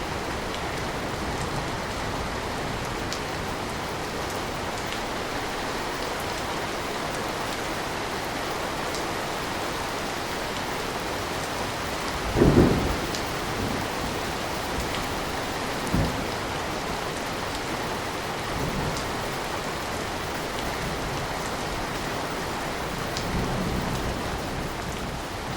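Steady rain, with a short, loud low rumble about halfway through and a smaller low thud a few seconds later.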